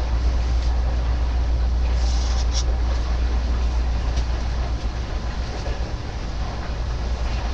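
Heavy machinery running with a steady low rumble, with a few brief high clatters about two and four seconds in.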